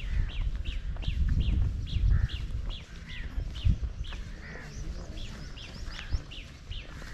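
A bird calling over and over: a quick, even series of short chirps that drop in pitch, about two or three a second. A louder low rumble on the microphone runs underneath.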